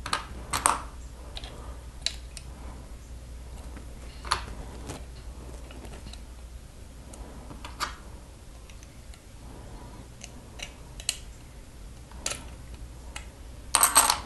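Plastic Lego pieces being handled and pressed together by hand, giving scattered sharp clicks and snaps with a quick cluster of clicks near the end.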